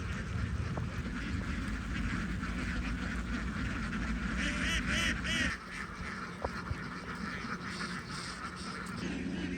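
A flock of domestic ducks quacking, with a quick run of several loud quacks about halfway through over a low, steady background rumble.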